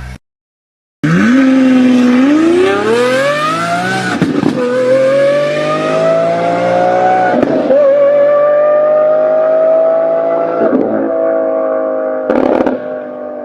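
High-revving engine accelerating hard through the gears. Its pitch climbs steadily, dips briefly at three quick upshifts about three seconds apart, and climbs again after each. There is a short crackling burst near the end.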